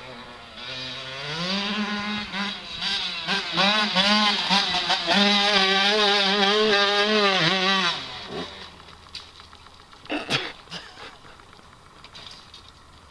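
Dirt bike engine revving hard under acceleration, its pitch climbing and wavering with throttle and gear changes, then falling away about eight seconds in. A single short sharp sound follows a couple of seconds later.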